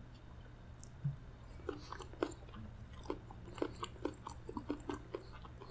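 Close-miked mouth sounds of a man chewing: a quick, irregular run of short wet clicks and smacks. About a second in, a drinking glass is set down on the table with a soft knock.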